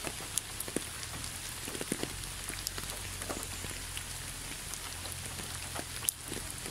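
Steady light rain pattering, with scattered separate drops ticking throughout.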